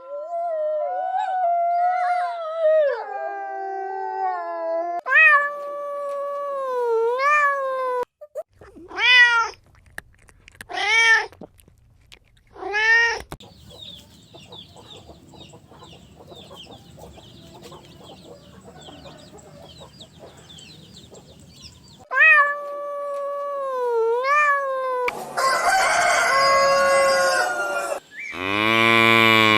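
A run of separate animal calls: long cat meows that bend up and down in pitch, three short arched meows, more meows after a faint stretch with small chirps, then a harsh rooster crow, and a cow starting to moo near the end.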